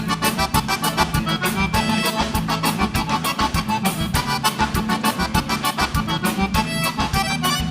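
Live gaúcho dance band playing an instrumental break, the accordion leading the melody over low bass notes and a steady, quick beat.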